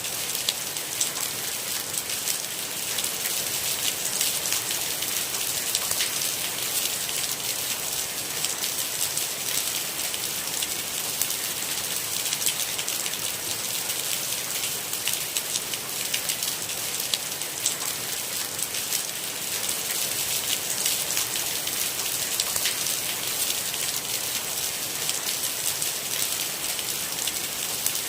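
Steady rain: an even hiss of rainfall with a dense patter of individual drops ticking on a surface.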